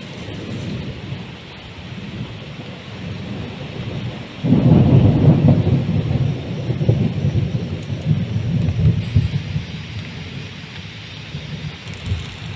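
Heavy rain falling steadily, with a thunderclap about four and a half seconds in that rumbles on and slowly fades over several seconds.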